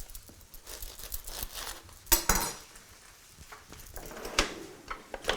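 A knife cutting through a bread roll, with scattered clicks and knocks of kitchen utensils and a longer scraping, crackling cut about two seconds in.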